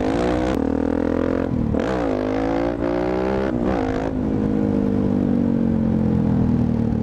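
Suzuki DR-Z400SM single-cylinder four-stroke engine running through a Yoshimura exhaust while riding: the engine note climbs, breaks sharply twice about one and a half and three and a half seconds in as gears change, then settles into a steady, slowly falling run.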